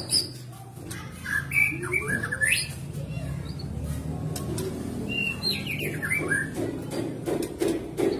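White-rumped shama (murai batu) singing: two bursts of quick, sharply gliding whistled and chirping notes, about a second and a half in and again about five seconds in, over a low steady background noise.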